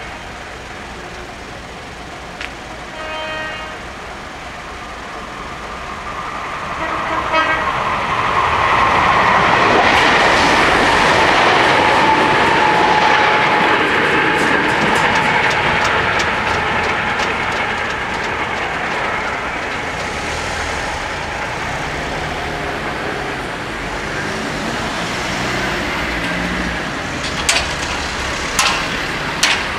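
Two short horn toots, then an electric commuter train passes over a level crossing. Its running noise builds to a peak about ten seconds in, with rapid clicking of wheels over the rails, then fades. Near the end, cars drive over the crossing, their tyres knocking sharply on the rails.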